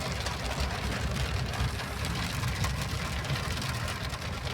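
Steady rain hissing, with many small drop impacts, over a continuous low rumble.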